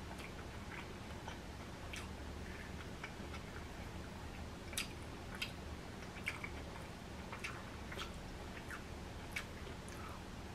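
Close-up chewing of crunchy Flamin' Hot Cheeto-crusted fried food: irregular crisp crunches and mouth clicks, over a steady low hum.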